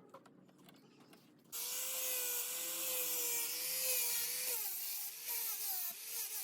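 An electric power tool starts up about a second and a half in and runs with a loud high whine, its pitch sagging several times as it cuts into wood.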